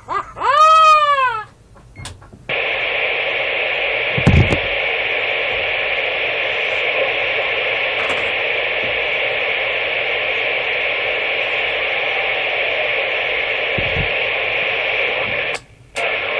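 CB radio receiver hiss: steady static from the radio's speaker that starts abruptly about two and a half seconds in and cuts off just before the end, returning briefly for under a second. Just before the hiss, a short electronic tone rises and falls in pitch.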